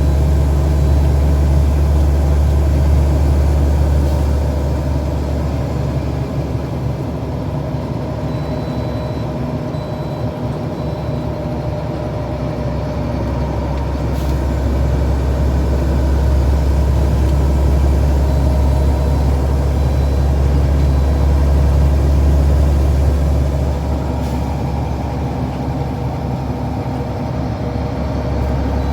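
Heavy truck's engine running steadily while driving, a deep hum with a few steady tones above it, easing off a little about four seconds in and again near the end.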